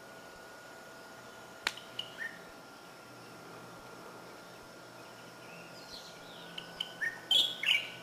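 Small birds chirping: two short chirps about two seconds in, then a quick run of louder chirps near the end. A single sharp click comes just before the first chirps.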